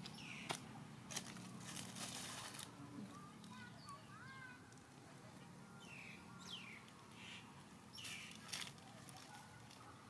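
Faint bird calls: several short chirps falling in pitch and a few wavering twittering notes, with brief rustles of dry leaves.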